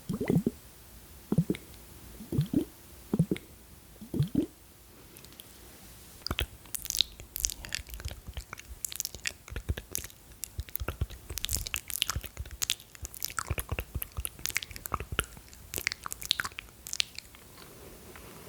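Close-miked ASMR mouth sounds: a few low gulping "glu glu" pops about a second apart, then from about six seconds a dense run of sticky, crackly mouth clicks.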